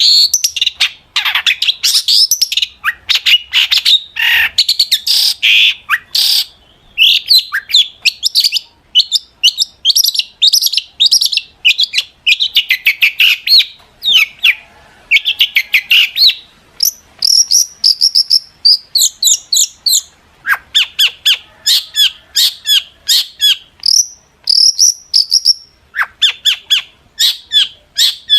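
Long-tailed shrike (cendet) singing hard: a loud, fast, near-continuous stream of sharp chattering notes, broken by a few short whistles.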